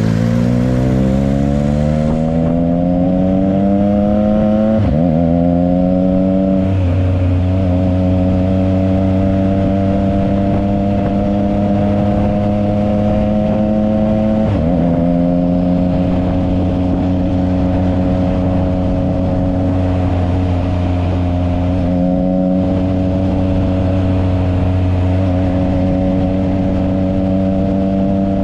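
Triumph Trident 660's three-cylinder engine through a Yoshimura exhaust, accelerating under way. Its note climbs in the first couple of seconds and drops sharply at upshifts about five, six and a half and fourteen and a half seconds in, rising again after each. It then holds a nearly steady cruise for the rest.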